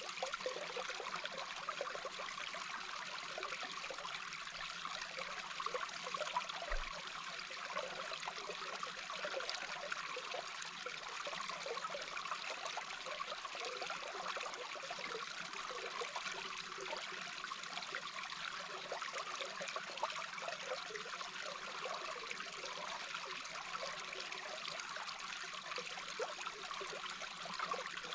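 A small brook heard from underwater: a steady rush of flowing water, with fine bubbling flickers through it.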